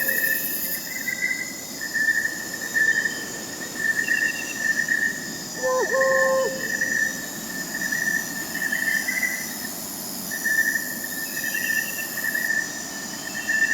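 Crickets chirping in a steady, pulsing trill, with fainter higher insect trills above them. A single short owl hoot sounds about six seconds in.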